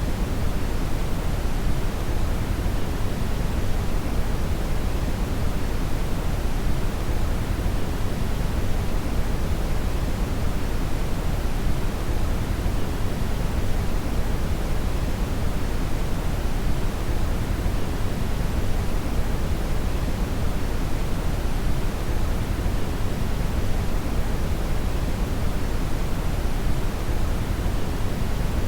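Steady, unchanging brown noise (red noise): a deep, even rushing hiss with most of its weight in the low end and little in the highs.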